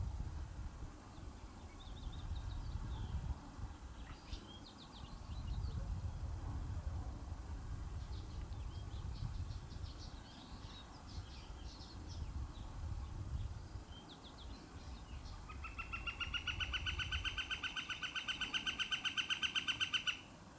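Small birds chirping over a gusty low rumble of wind noise. For the last five seconds a loud, fast, evenly pulsed trill at one steady pitch takes over, then cuts off abruptly.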